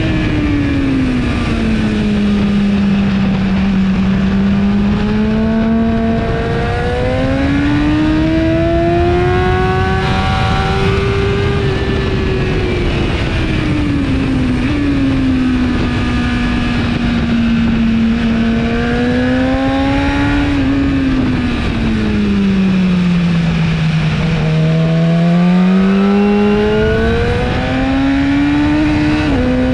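A 2017 BMW S1000RR's inline-four engine through an Akrapovic exhaust, heard onboard at track speed. Its pitch sinks under braking and climbs under acceleration through the corners, with a few sudden jumps in pitch at gear changes, over a steady rush of noise.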